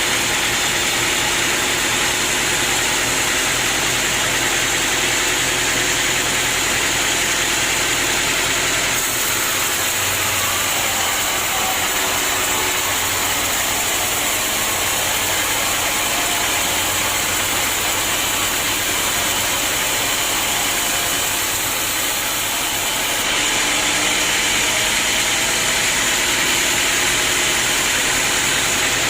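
Sawmill machinery running steadily: an engine-like hum under a dense, even hiss. The low hum thins out about nine seconds in and comes back strongly near the end.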